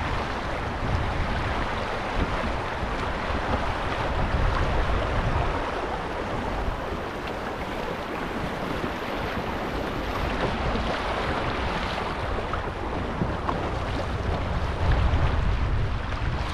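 River water rushing steadily around a canoe in a small riffle, with wind buffeting the microphone as a low rumble.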